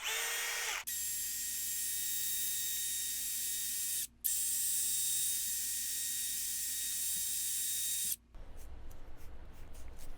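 Powered wire wheel scrubbing rust and old grime off a cast-iron machine part, giving a steady loud hiss over a constant motor whine. The sound breaks off briefly about four seconds in and again just after eight seconds, when a quieter scraping follows.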